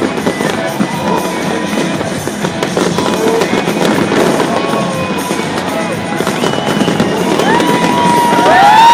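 Fireworks bursting and crackling in a dense, steady barrage over crowd noise, with scattered short whistling glides. Near the end a loud tone rises and then holds steady.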